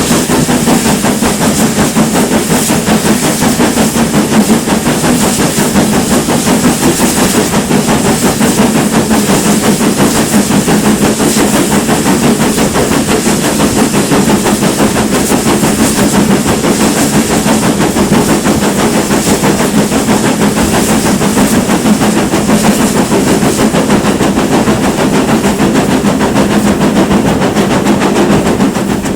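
GWR Manor class two-cylinder 4-6-0 steam locomotive working hard, its exhaust beating loudly and continuously with the rumble of the train.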